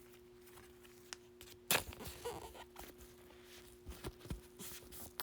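A trading card being handled and protected in a plastic sleeve or holder: faint rustles and light taps of card and plastic, with a louder tap about a second and a half in and a few small clicks near the end. A faint steady hum lies underneath.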